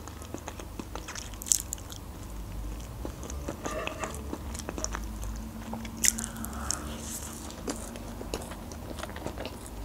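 Close-miked mouth sounds of chewing a mouthful of soft pancake: a run of small wet clicks and lip smacks, with two sharper smacks about one and a half and six seconds in.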